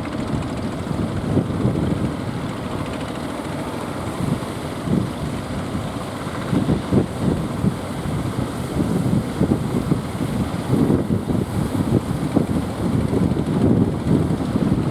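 Strong wind buffeting the microphone in irregular gusts, a rumbling rush with no steady tone.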